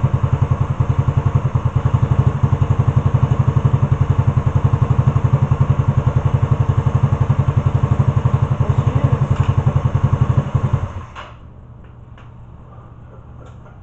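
Motorcycle engine running at a steady, fast-pulsing high idle on its first start after sitting dead, then shutting off abruptly about eleven seconds in; a few faint clicks follow.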